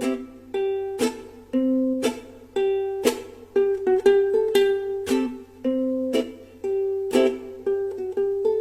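Instrumental music: a plucked string instrument, ukulele or small guitar, strumming chords in a steady rhythm of about two strums a second, with no singing.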